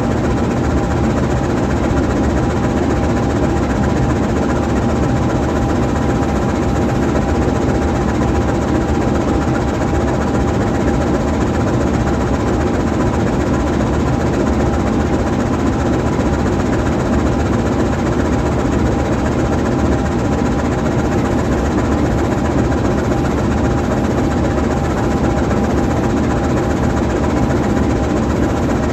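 GE U20C diesel-electric locomotive's V12 diesel engine idling steadily while the locomotive stands still, a constant low running with a steady high tone over it.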